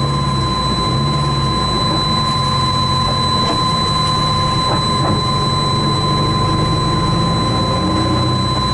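Race car engine running at a fairly even low pitch, heard from inside the car, with a thin steady high tone over it.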